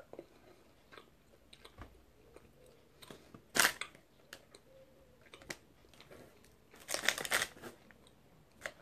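A person chewing a soft green-apple gummy sweet: faint, scattered wet mouth clicks. One click stands out about three and a half seconds in, and there is a brief rustle about seven seconds in.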